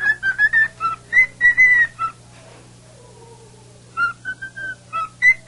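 A pet cockatiel whistling a tune in short, clear notes, pausing for about two seconds midway before the melody picks up again.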